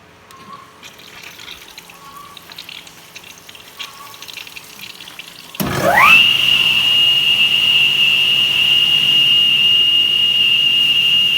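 Stone-cutting machine's blade motor starting up about halfway through: a whine rising quickly in pitch as it spins up, then holding at a steady high whine at full speed. Faint scattered noises before it starts.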